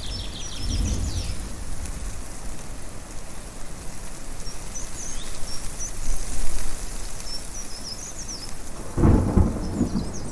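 Thunder rumbling over a steady rushing background, with the loudest rumble about nine seconds in. Songbirds chirp in short high phrases at the start and again in the middle.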